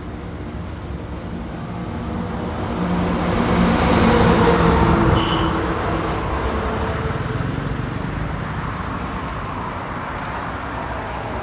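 A motor vehicle passing by: its noise builds to a peak about four seconds in and then slowly fades away.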